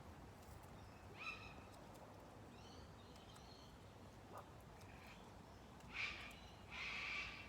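Bird calls: a short call about a second in, a quieter run of notes around three seconds in, and two louder, harsher calls near the end.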